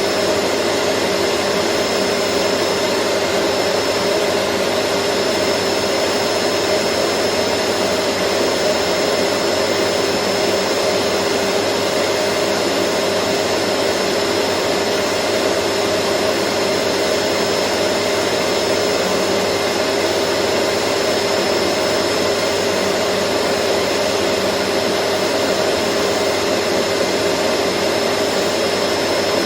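Vacuum cleaner running steadily: an even, unchanging motor-and-airflow hiss with a steady whine over it.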